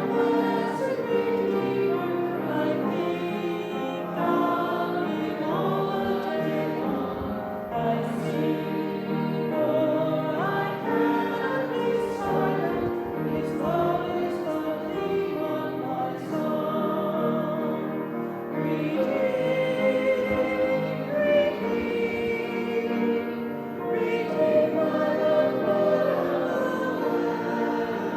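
A congregation singing a hymn together.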